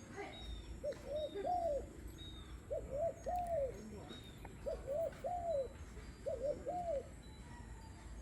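A dove cooing: four repeated phrases of two short coos and a longer arched coo, about every two seconds. Faint high chirps from another small bird come in the first couple of seconds.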